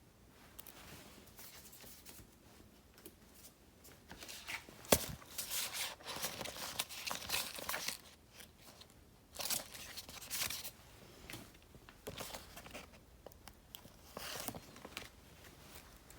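Paper stickers being peeled and handled: crinkling, tearing-like rustles in several bursts, with one sharp tap about five seconds in.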